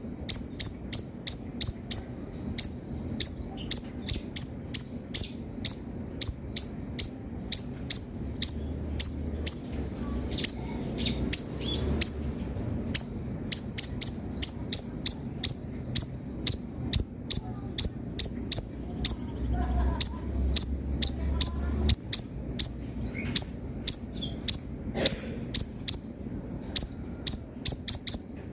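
Sunbird (kolibri ninja) calling in a fast, unbroken run of short, sharp, high chirps, about two or three a second.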